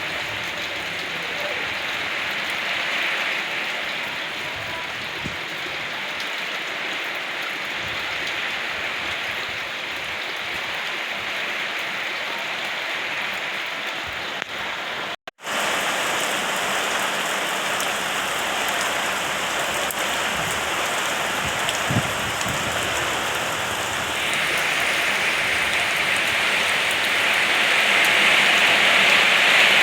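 Steady rain falling on surfaces, with scattered individual drop ticks. The sound cuts out for a moment about halfway through, then resumes a little louder, and grows louder again near the end.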